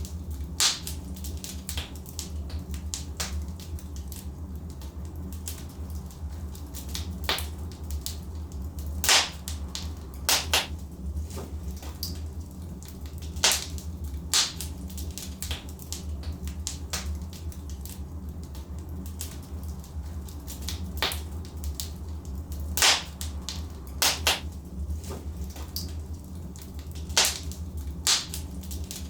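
Wood logs burning in a fireplace: irregular sharp crackles and pops from the wood over a steady low rumble.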